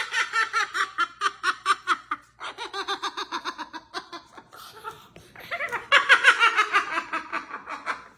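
A parrot imitating laughter: rapid, evenly paced 'ha-ha-ha' pulses in three bouts, the last one the loudest.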